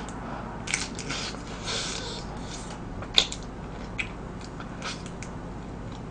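Close-up biting and chewing of a large deep-fried cheese stick with a crisp coating: irregular crackles and wet mouth clicks, the sharpest about three seconds in.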